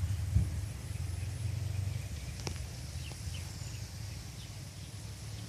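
Outdoor ambience: a steady low rumble, like wind or handling on the microphone, with a single sharp click about halfway through and a few faint bird chirps in the second half.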